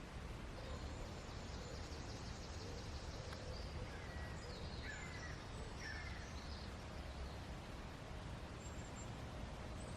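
Woodland birds calling faintly: a thin high trill, then a few short chirps about four to six seconds in, over a steady low background noise.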